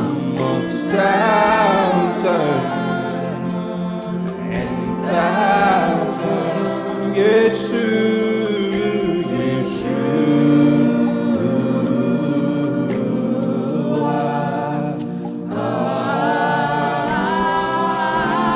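Church worship team singing slow, spontaneous gospel worship, voices holding long, gliding notes over sustained chords.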